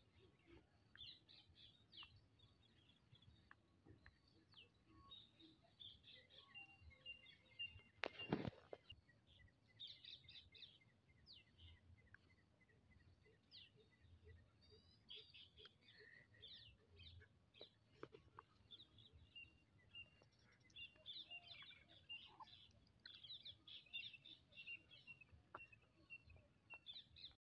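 Faint chirping of birds, many short high calls scattered throughout, with a brief louder noise about eight seconds in.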